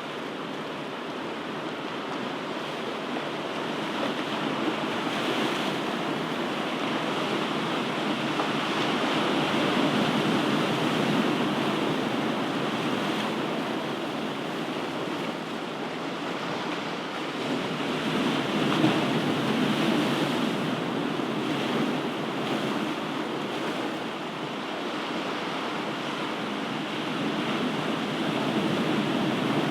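Ocean waves breaking and washing on a shore: a steady surf hiss that swells and eases as each wave comes in, about every nine seconds.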